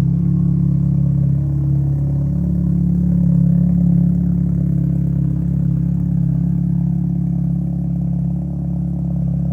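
Volkswagen Passat engine idling steadily on a cold start.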